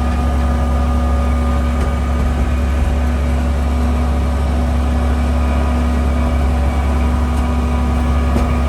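Tour train's engine running steadily, a loud even low drone with a constant hum of steady tones, heard from aboard the train.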